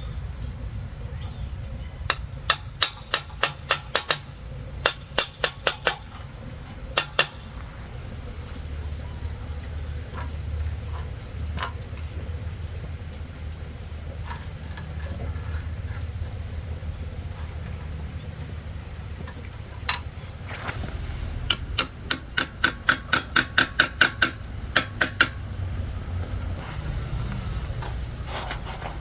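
Hammer blows in quick runs of sharp strikes, several a second: one set of runs a couple of seconds in, and a longer run of about fifteen blows near the end, over a steady low rumble.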